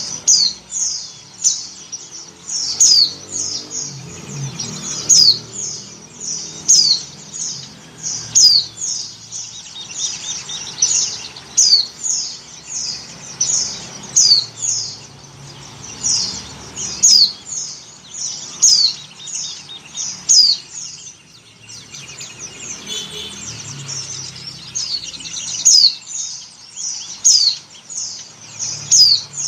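Female pleci (white-eye) calling: short, high chirps repeated about once a second, each sliding down in pitch. The uploader presents this as a female's breeding-condition call to attract males.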